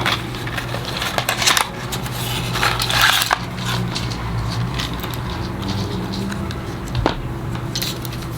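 Clicking, scratching and crinkling of a pill package being handled and opened to take migraine medication. The handling is busiest in the first three seconds or so, with one sharp click about seven seconds in, over a steady low hum.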